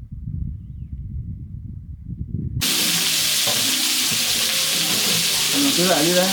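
Low rumbling noise that cuts off abruptly, giving way to a loud, steady sizzling hiss. Voices come in over the hiss near the end.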